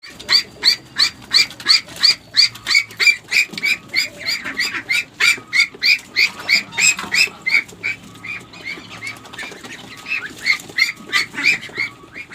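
Duck calling over and over in short repeated squawks, about three a second, the run getting a little weaker and less regular near the end.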